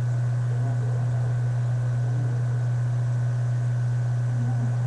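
Steady low hum with a faint hiss behind it, unchanging throughout; no other sound stands out.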